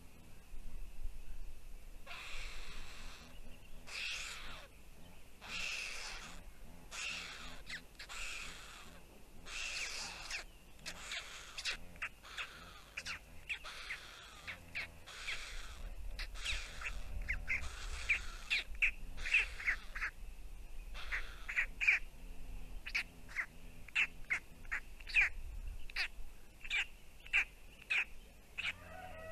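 Harsh bird calls repeated about once a second, the later ones shorter and quicker.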